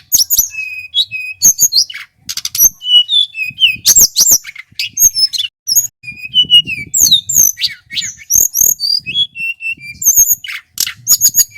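Male hill blue flycatcher singing without pause: a rapid, varied run of clear whistled notes that slide up and down, mixed with short sharp notes.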